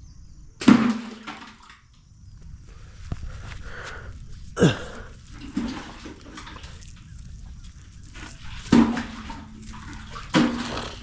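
Sudden splashes and knocks down in the water of a well, four main ones, some leaving a short hollow ringing tone and one a quick falling gulp. They come as the well's water level is tested, and the water turns out lowered but not dried up.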